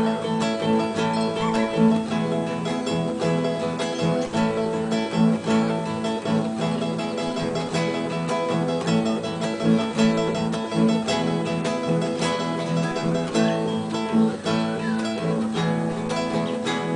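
Solo acoustic guitar playing continuously, plucked and strummed notes over sustained bass notes.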